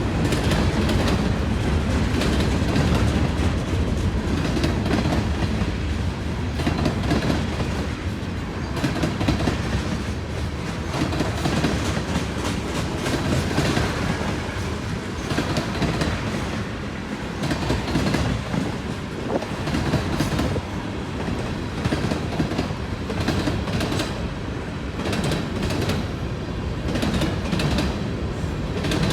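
A freight train's cars rolling past at close range, their wheels clattering on the rails with a continuous run of clicks.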